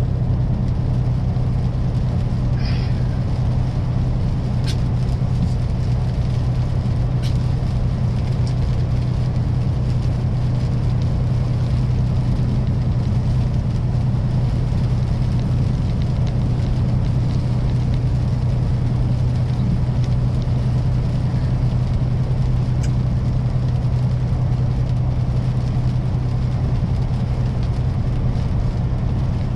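Kenworth semi truck's diesel engine droning steadily at highway cruise, heard from inside the cab with road noise and a few faint ticks.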